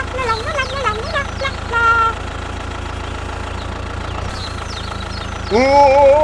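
A small motor running steadily with an even hum. High squeaky voice-like calls come in the first two seconds, and a louder one comes near the end.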